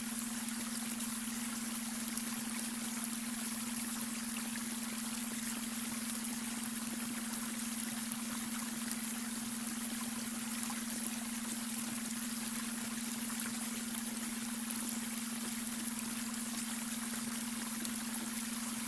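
Babbling brook with water running and trickling steadily, over a constant low hum: the beta brainwave tone laid under the water sound.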